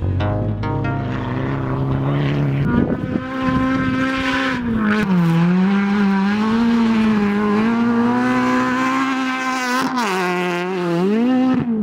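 Rally car engine running at high revs on a special stage, its pitch holding high and dipping briefly about five seconds in and again near ten seconds as the driver lifts or changes gear.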